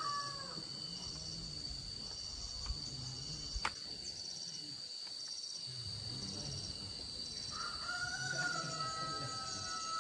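Rural outdoor ambience: a steady high insect drone with a faster insect chirp repeating over it, a long wavering bird call in the last few seconds, and one sharp click about three and a half seconds in.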